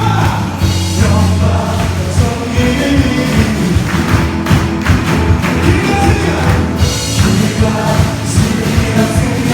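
A live praise band playing a worship song, with a steady drum beat, bass and singing.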